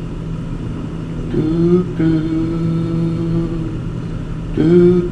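Car engine running, revving up twice, about a second and a half in and again near the end, each time settling back to a lower steady pitch.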